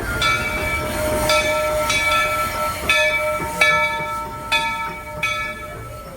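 Steam locomotive's bell ringing in a steady rhythm, about seven strikes, each ringing on with the same set of tones.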